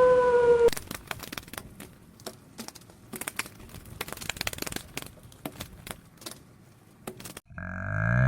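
A dog's howl ends about half a second in, followed by several seconds of faint, scattered clicks and crackles. Near the end a cow starts to moo, its pitch rising.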